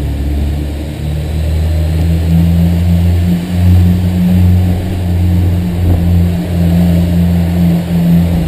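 Honda S2000's four-cylinder engine running under load on a road test after new spark plugs were fitted to cure misfires. The engine note is steady, with several brief dips in level.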